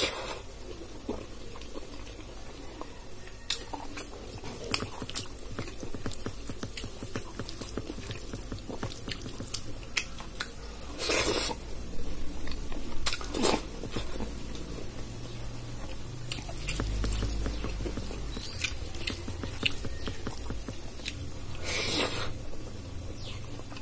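Close-miked chewing of rice and dal eaten by hand, with many small wet mouth clicks and three louder mouth sounds, about 11, 13 and 22 seconds in.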